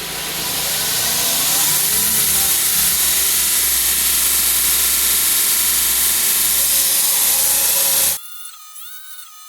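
Grizzly 2x42 belt grinder grinding down the welds on a forge-welded mild steel axe head, a loud steady hiss of abrasive belt on steel, on a belt that is due for changing. It swells in over the first second and cuts off suddenly about eight seconds in, giving way to background music.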